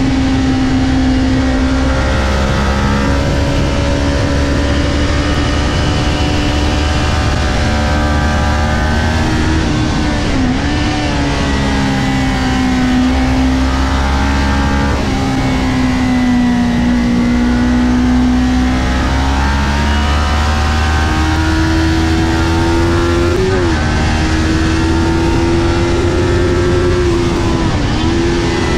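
Kawasaki Ninja 400's parallel-twin engine running hard at high revs through a race lap, heard from on the bike over wind rush. The pitch holds high with slow rises and falls and drops sharply for a moment about ten seconds in, again about two thirds through and near the end.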